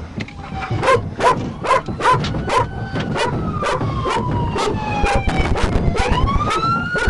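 Police car siren wailing, its pitch falling slowly and then rising again near the end. In the first few seconds a series of short, sharp yips comes about two or three times a second.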